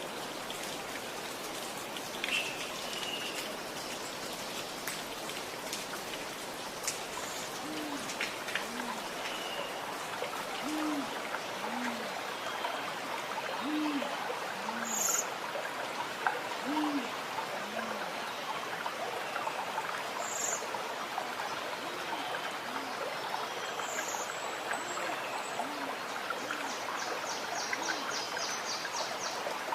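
Running water gurgling with a steady hiss and some dripping, while a bird gives a long series of low hoots in paired notes from about eight seconds in. A few short higher chirps from other birds come and go.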